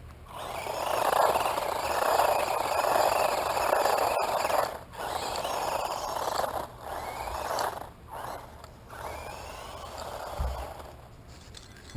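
Flame Peace S916 electric RC car driving: a loud rush of motor and tyres for the first five seconds or so, then in shorter surges with a faint whine rising and falling, fading after about nine seconds.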